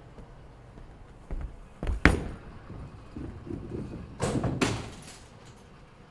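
A series of knocks and thuds: a couple of impacts build to the loudest about two seconds in, then two more a little past four seconds, over a low rustling background.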